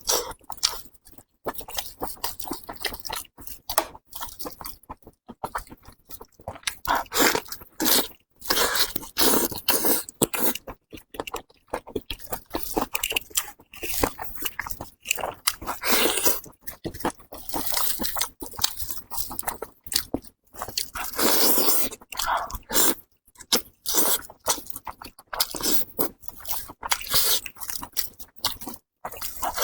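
Close-miked eating of a lamb's head, likely the tongue: repeated bites and chewing with crunchy, clicky mouth sounds coming in irregular bouts, with short pauses between them.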